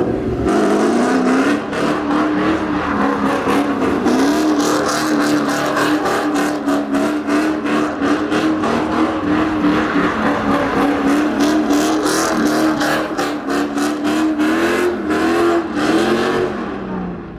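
Car or truck engine held at high, steady revs, with a dense crackling over it. The pitch wavers a little, rises briefly near the end, then drops away.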